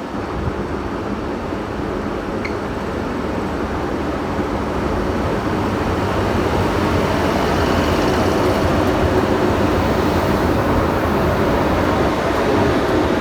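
A train approaching, a steady rumble growing gradually louder.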